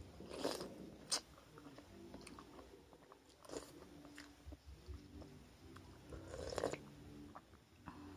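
A person chewing and eating a mouthful of rice, fish and soup vegetables close to the microphone. There are louder mouth sounds about half a second in, at about three and a half seconds and near six and a half seconds, and a sharp click just after one second.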